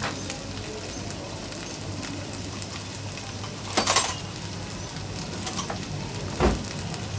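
Diced boiled potatoes frying in oil in a non-stick pan, a steady sizzling hiss. A brief louder burst about four seconds in and a dull thump about six and a half seconds in.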